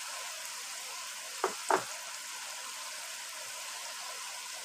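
Spice masala frying in ghee in a pot, a steady sizzle, with two short knocks about a second and a half in.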